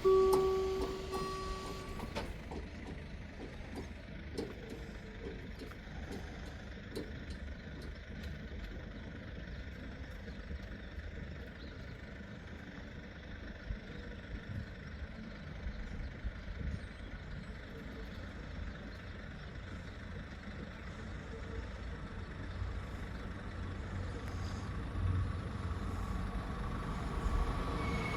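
Low, steady outdoor rumble of road traffic, with a steady pitched tone that cuts off about two seconds in. Near the end a train approaching along the track grows louder.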